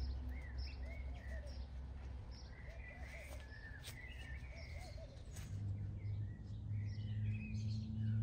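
Small birds chirping and calling in short repeated phrases over a steady low outdoor rumble, with a few faint knocks.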